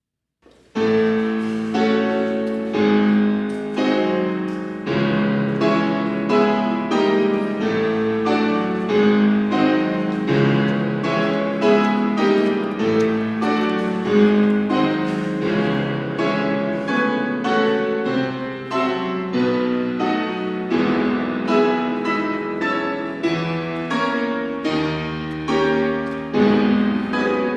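Solo piano music: a steady run of notes and chords, about two a second.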